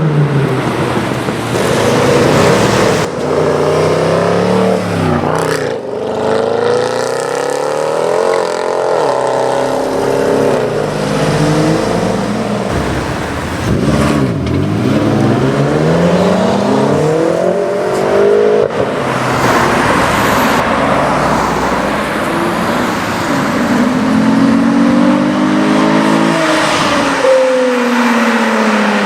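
Loud performance-car engines accelerating hard, one after another. Each engine note climbs and then drops sharply at every gear change, several times over.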